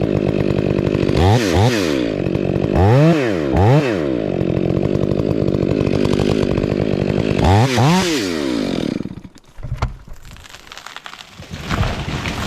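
Chainsaw engine running at idle, given several quick throttle blips that rev it up and let it fall back, then stopping about nine seconds in.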